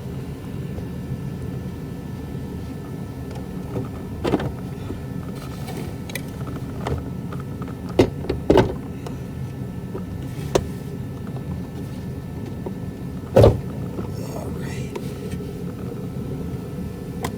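Scattered knocks and clunks of plastic and metal parts as the heater box is worked down from under a car's dashboard, the loudest knock about thirteen seconds in, over a steady low hum.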